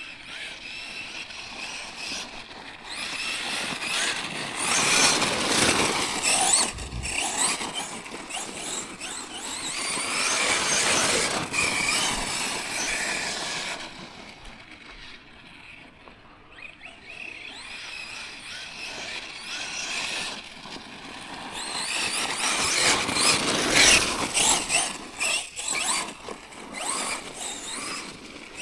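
Tekno MT410 2.0 1/10-scale electric monster truck being driven hard: its electric motor and drivetrain whine, rising and falling with the throttle, over a rougher noise from the tyres. There are two long runs, one of about ten seconds and a second near the end, with an easing-off between them.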